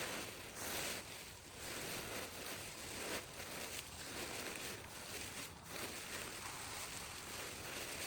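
Steady rushing outdoor noise with small swells and a few soft clicks and rustles.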